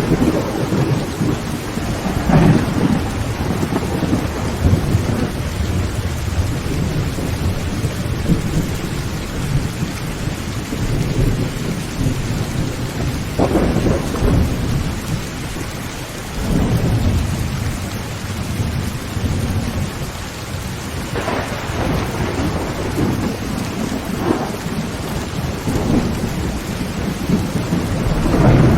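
Heavy rain pattering on a tin roof, with thunder rumbling and swelling several times over it.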